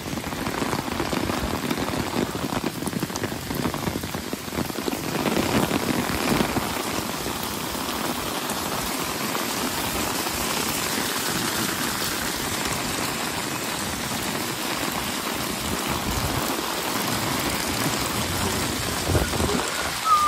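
Heavy rain pouring steadily onto paved streets, trees and parked cars: a constant, even downpour.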